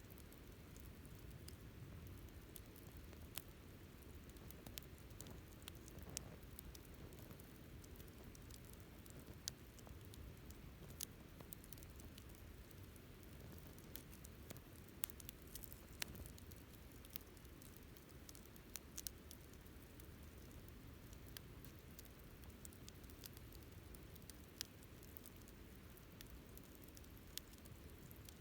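Wood campfire crackling: irregular sharp snaps and pops, a dozen or so louder than the rest, over a soft low rustle of burning wood.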